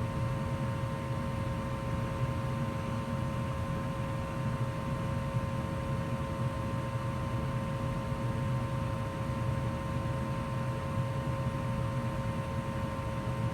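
A 2004 Goodman gas furnace running steadily in heat mode: an even rushing noise with a low hum and a thin steady whine, unchanging throughout.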